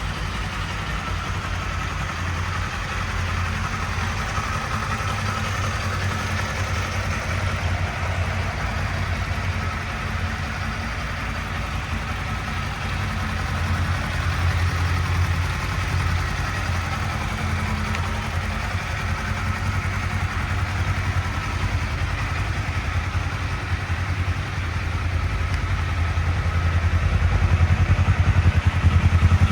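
Kawasaki Z500's 451 cc parallel-twin engine idling steadily, getting slightly louder over the last few seconds.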